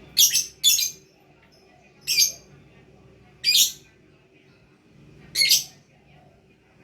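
Lovebird giving short, shrill, harsh calls: five in all, the first two in quick succession, then three more spaced about one and a half to two seconds apart.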